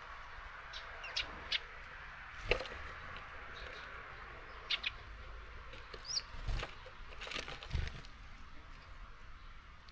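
Small songbirds at a garden seed feeder: a few brief high chirps, and three sharp knocks and flutters as birds land, peck and take off, over a steady hiss of rain.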